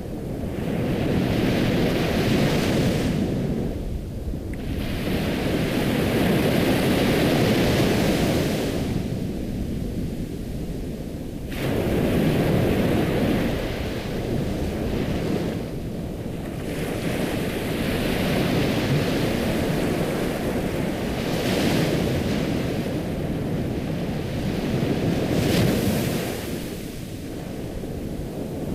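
Ocean surf: waves washing in and drawing back, a steady rushing that swells and ebbs every few seconds.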